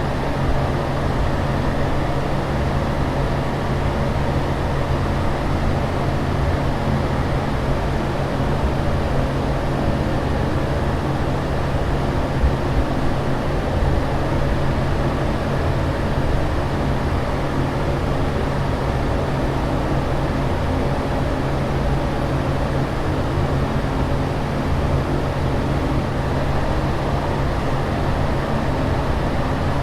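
Steady aircraft cabin noise in flight: an even rushing hiss over a constant low hum, with no change throughout.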